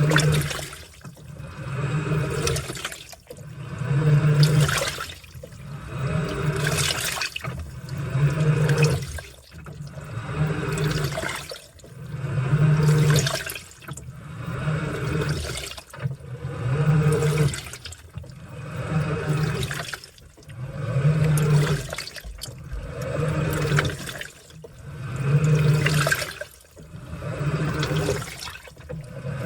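Washing machine in its wash cycle: water sloshing in the drum as it turns, with the motor humming each time. The swells come evenly, about one every two seconds.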